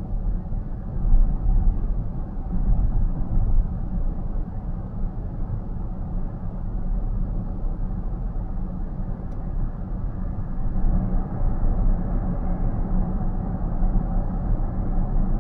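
Steady low road and tyre rumble inside a car's cabin while cruising at expressway speed.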